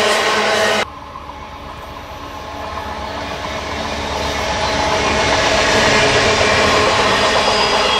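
Amtrak passenger train with a diesel locomotive in front, approaching on the track. Its rumble grows steadily louder for several seconds, then holds. Just under a second in, a louder sound with several steady tones cuts off abruptly.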